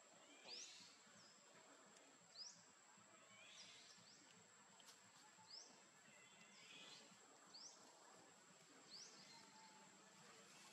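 Faint outdoor ambience: a bird repeating a short rising chirp about every one and a half to two seconds, over a steady high-pitched insect drone.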